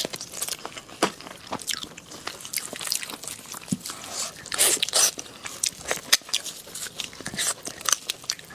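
Close-miked eating of pork knuckle: irregular wet smacks, clicks and crunches of biting and chewing.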